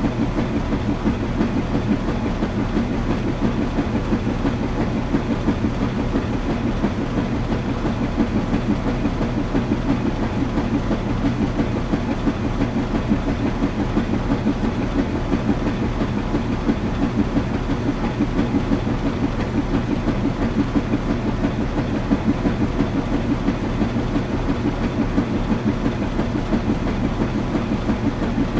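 Washing machine running steadily: a continuous low rumble and hum with a fast, even pulsing that does not change.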